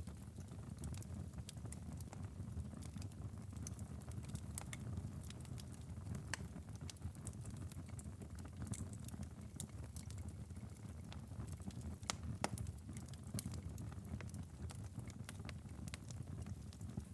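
Wood fire crackling in a fireplace: frequent sharp pops and snaps over a steady low rumble of the flames, with one louder snap about twelve seconds in.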